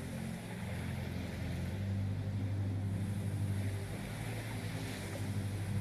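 Low, steady droning background music: held low notes that shift about two seconds in, over a soft hiss.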